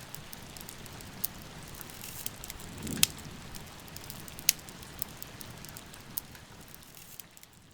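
Steady rain with a wood fire crackling and giving off sharp pops now and then; the loudest pop, with a low thud under it, comes about three seconds in. The sound fades down near the end.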